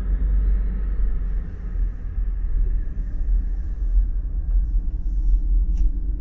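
A steady low rumble that wavers in loudness, with a faint hiss above it.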